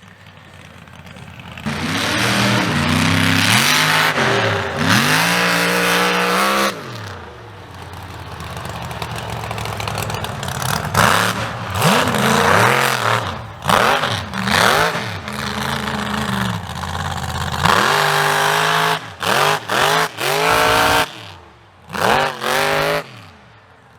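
Mega mud truck's engine revving hard, over and over, its pitch climbing and dropping with each stab of the throttle. Near the end it gives a string of short blips that cut off sharply.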